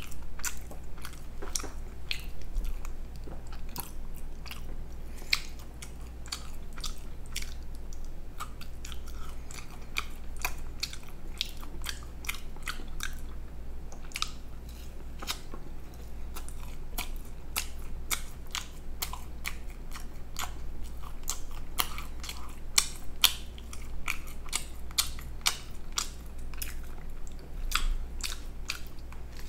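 A person chewing and biting food, with many irregular mouth clicks and crunches.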